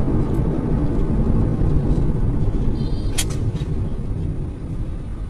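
Steady low rumble of a car driving, engine and road noise, with a single sharp click a little after three seconds in.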